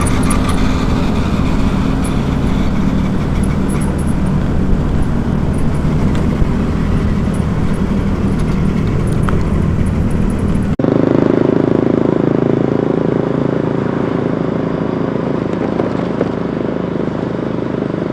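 Steady road noise of a moving vehicle: engine, tyre and wind rumble. About eleven seconds in it changes abruptly, the deep rumble dropping away and a steadier mid-pitched hum taking over.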